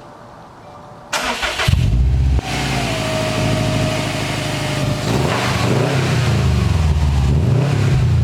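Turbocharged Subaru flat-four engine, breathing through a newly fitted Cobb 3-inch cat-back exhaust, cranks briefly and fires about a second in. It flares up, settles to idle, and from about five seconds in is revved in a few short blips.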